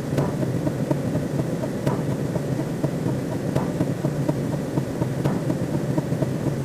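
Sci-fi sound effect: a steady, eerie rumbling drone with a faint click about every second and a half.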